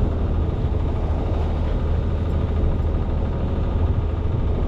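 Sailing yacht's inboard engine running steadily under motor, a low even drone with a steady rushing noise over it.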